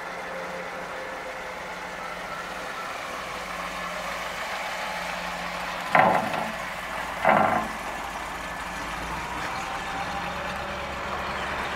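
1961 Ford Galaxie Sunliner's engine idling steadily, with two short louder bursts about six and seven seconds in.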